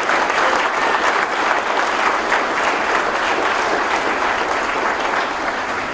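Audience applauding steadily in a large hall, the clapping easing slightly near the end.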